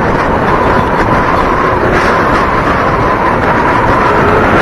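Loud wind buffeting on the bare microphone of an SJ8 Air action camera with no waterproof case, on a moving motorcycle, with engine and road noise and a steady whine underneath.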